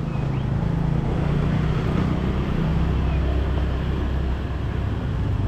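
A motor vehicle's engine running close by, a steady low hum over street noise.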